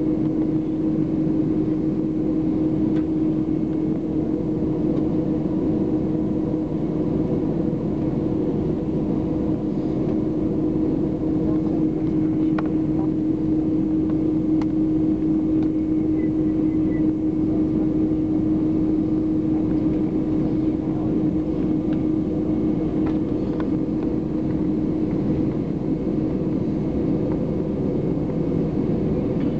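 Steady drone inside an airliner's passenger cabin with its jet engines running: a constant hum carrying a few unchanging tones, with no rise in pitch or level.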